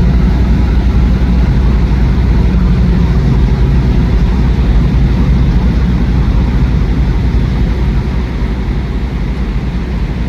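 Semi-truck's diesel engine running with a loud, steady low rumble, easing off slightly about eight seconds in.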